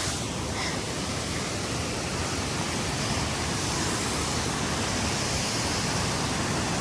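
Large waterfall's steady rush of falling water, heard close up in its spray.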